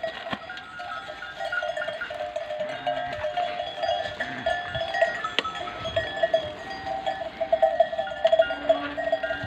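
Many livestock bells on a flock of sheep and goats clanking together in a dense, continuous jangle as the animals move.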